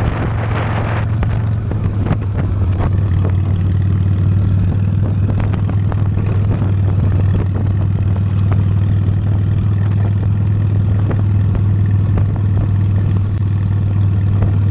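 Honda Steed V-twin motorcycle engine running at a steady speed, a constant low hum, with scattered light knocks and rattles from riding over a rough dirt road.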